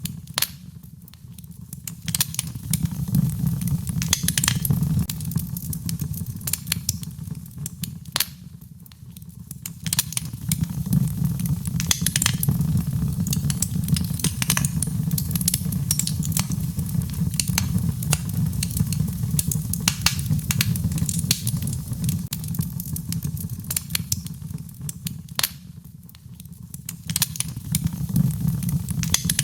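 Fire in a fireplace crackling, with many sharp pops and snaps over a low rumble that swells and eases several times.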